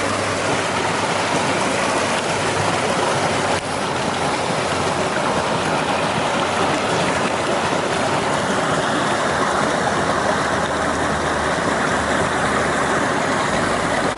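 Creek water rushing steadily over rocks, a loud, even hiss and splash of a small waterfall.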